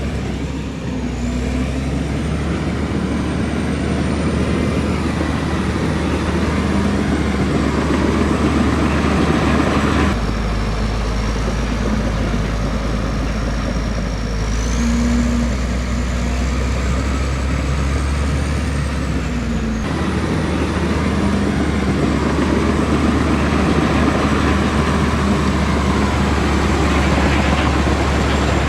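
Komatsu D65E bulldozer's diesel engine running under load while the dozer pushes, a steady low rumble with a faint high whine that drifts in pitch. The sound shifts abruptly about ten and twenty seconds in.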